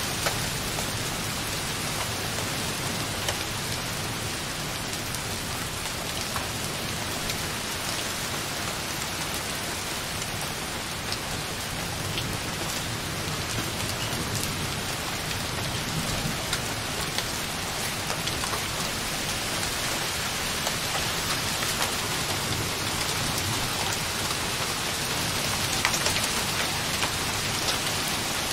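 Light rain falling softly on a window pane in a steady beat, with scattered single drops ticking, a little heavier near the end. A faint, distant thunder rumble runs low underneath.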